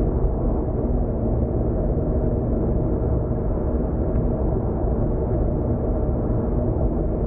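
Steady low rumble of a car driving at expressway speed, heard from inside the cabin: tyre and road noise with the engine's drone underneath, unchanging throughout.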